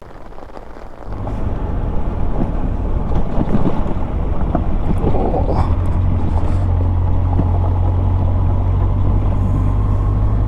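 Motorcycle engine running steadily under heavy wind rush on the microphone, starting abruptly about a second in and cutting off sharply at the end.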